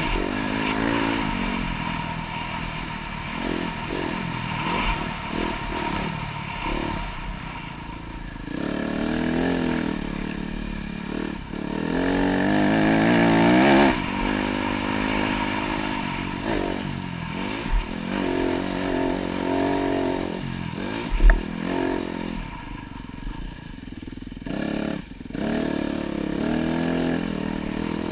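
Dirt bike engine on a motocross track, revving up and dropping back again and again as the throttle is worked, loudest in a long pull about halfway. A single sharp knock comes about two-thirds of the way in.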